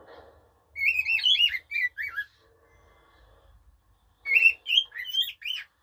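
Pet bird singing: two bursts of quick rising-and-falling chirps, each about a second and a half long, with a pause between.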